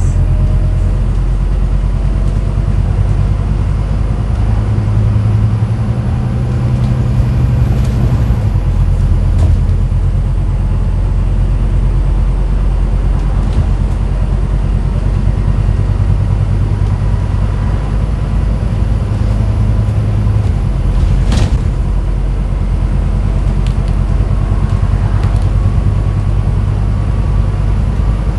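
Scania N250UD double-decker bus's diesel engine rumbling under way, heard from the top deck. The engine note shifts a few times, most clearly about eight seconds in and again around twenty seconds. A single sharp knock comes a little after twenty seconds.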